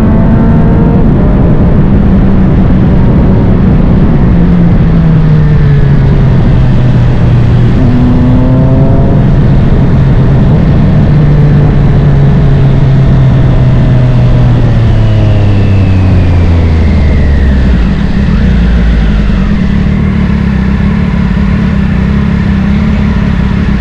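Triumph Street Triple 765 RS's 765 cc inline-three engine through a Spark Grid-O full exhaust. The revs fall gradually as the bike slows, with a brief rise about eight seconds in, then settle to a steady idle about eighteen seconds in.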